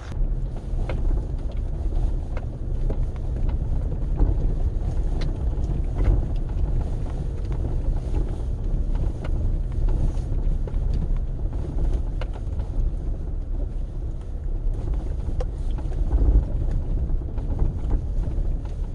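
Wind buffeting the microphone outdoors: a steady low rumble that swells in gusts, with faint scattered ticks over it.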